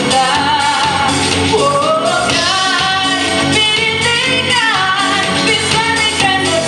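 A woman singing a melody with long held notes and vibrato over instrumental accompaniment.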